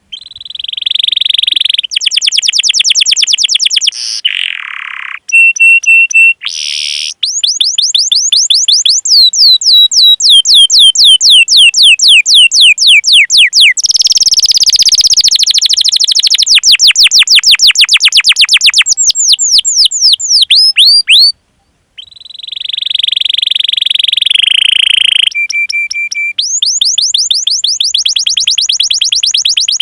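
Canary singing loudly: long, fast rolls of repeated sweeping notes alternating with steady trills and short chirps, broken by brief pauses, including a short silence about two-thirds through.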